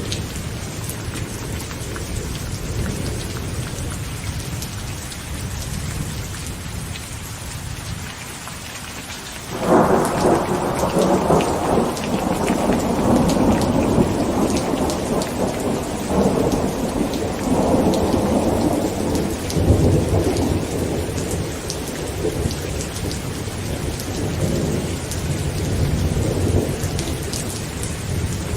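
Heavy rain falling on a tent, with low thunder rumbling. About ten seconds in, a loud thunderclap breaks suddenly and rolls on in several swells for most of the rest, easing near the end.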